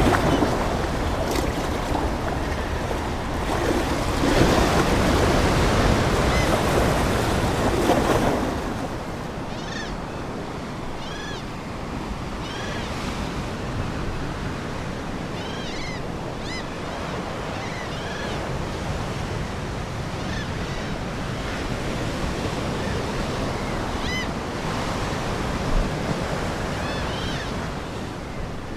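Ocean waves: a wave surges and washes in over the first eight seconds, then settles to a softer steady wash. Seagulls give short, high, repeated calls through most of the rest.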